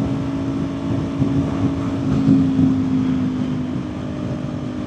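Kawasaki Ninja 400's parallel-twin engine running at a steady highway cruise, its pitch held constant, with wind noise on the rider's microphone.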